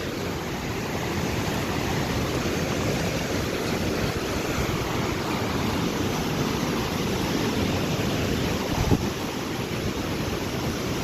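Steady rushing of a waterfall carrying heavy flow over a series of drops. A brief knock is heard about nine seconds in.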